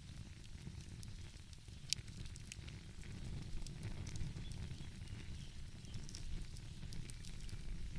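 Fireplace fire crackling, with scattered small pops and one sharper pop about two seconds in, over a low steady rumble.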